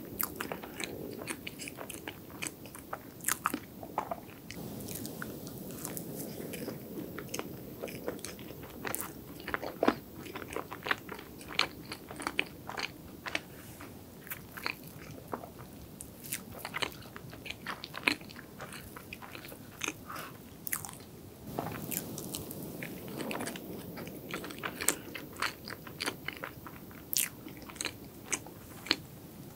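Close-miked chewing of soft chocolate cake, with many short wet mouth clicks and smacks.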